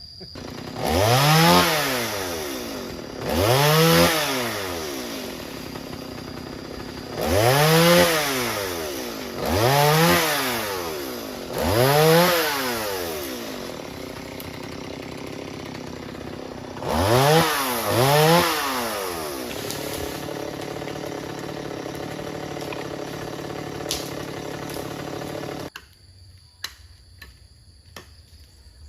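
Two-stroke chainsaw revved up and let back down seven times, each rise and fall lasting about two seconds. It then idles for about six seconds and cuts off suddenly.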